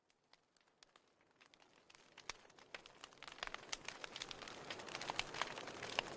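Wood fire in a fireplace crackling and popping, with irregular sharp snaps over a soft hiss, fading in from silence and growing steadily louder.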